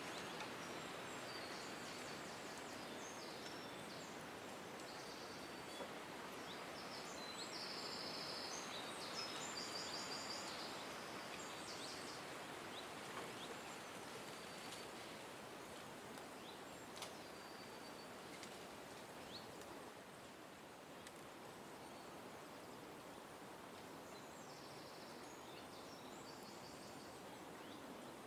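Small birds calling with short, high chirps, faint against a steady rushing outdoor background hiss. The chirps come in a cluster through the first half and again near the end.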